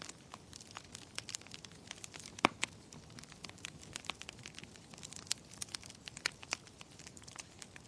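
Wood fire in a fireplace crackling, with many sharp irregular pops over a low hiss; one pop about two and a half seconds in is much louder than the rest.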